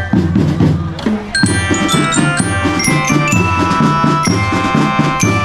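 School drum band playing: a steady beat on marching drums under a bright melody on glockenspiel-type bell lyres, with a brief break about a second in before the band picks up again.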